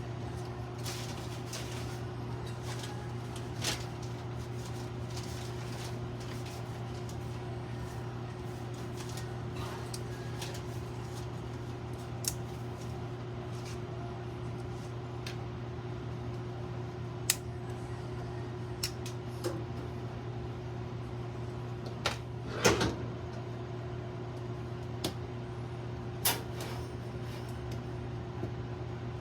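Scattered sharp clicks and knocks from the Gillette Labs razor, its plastic travel case and stand being handled, the loudest a short cluster about three-quarters of the way through, over a steady low hum.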